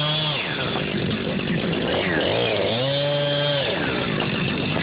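A small engine revs up, holds high for about a second, and drops back, with another rev dying away at the start, over a steady running engine.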